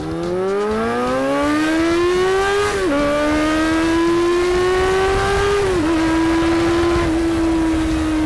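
Kawasaki ZRX400's inline-four engine accelerating hard, its pitch rising steadily to high revs. It dips briefly twice, about three and six seconds in, as it shifts up, then holds a nearly steady high pitch. It pulls cleanly at high rpm now that its high-rev stumble has been fixed.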